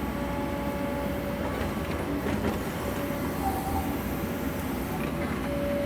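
Sany mini excavator running while digging: steady engine and hydraulic noise, with a thin whine that comes and goes and is strongest near the end.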